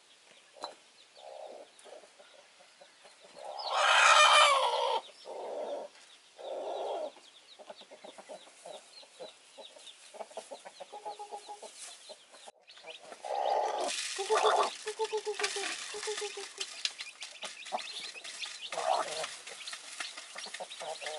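Chickens clucking, with one loud call about four seconds in. Busy clicking and rustling joins the clucking in the second half.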